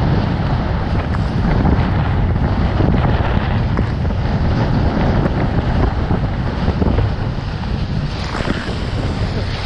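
Strong wind buffeting the microphone, with water rushing and splashing past the hulls of a Hobie 16 catamaran under sail, steady throughout.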